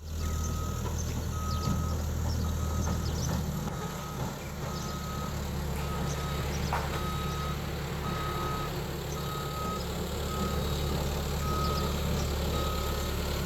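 Reversing alarm on a heavy diesel vehicle, a single-pitched beep repeating evenly about once every three-quarters of a second over the steady low running of its engine.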